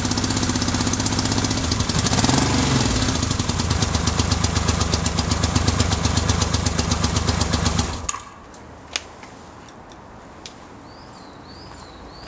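Yamaha XS750 three-cylinder engine running on only two of its cylinders after being revived as a non-runner, with a brief rev about two seconds in, then cutting out abruptly about eight seconds in; a few faint clicks follow.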